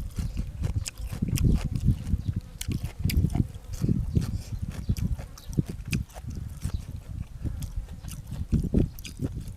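A person chewing food close to the microphone, with wet smacking and frequent sharp clicks in an irregular rhythm.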